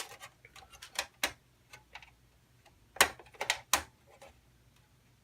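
Stamped sheet-metal I/O shield being pressed and snapped into the PC case's rear opening: scattered sharp metallic clicks, the loudest cluster about three seconds in.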